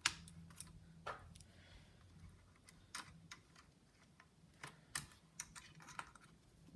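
Faint, scattered small clicks and taps from fitting the wireless card and its screw back into a Dell Inspiron 1545 laptop, with a precision screwdriver, over a faint low hum.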